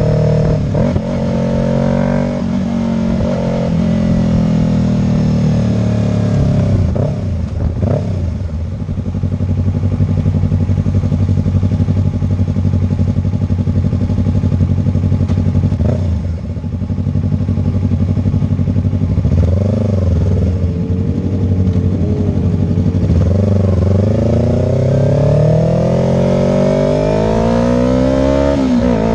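Sport motorcycle engine running at a steady speed, its pitch dipping and rising a few times, then climbing steadily over the last five seconds as it accelerates.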